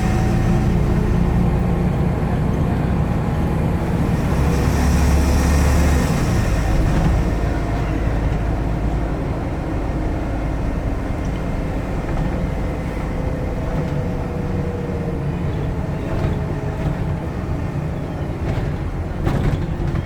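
Scania N94UD double-decker bus engine heard from the back seat inside the bus. It runs hard under load for about the first six seconds, then eases off to a lighter steady drone, with a couple of sharp knocks near the end.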